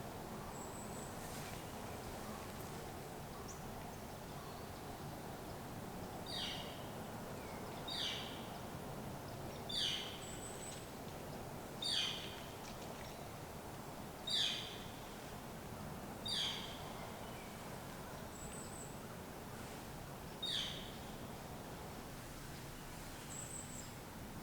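A bird calling outdoors: a loud downward-sliding call repeated about every two seconds, eight times, with a few short, thin high chirps in between, over a steady low background hiss.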